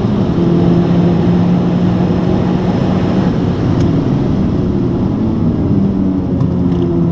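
Honda Civic Type R's turbocharged four-cylinder engine pulling at high revs under full throttle, heard from inside the cabin over wind and road noise. About halfway through, the throttle comes off as the car brakes hard.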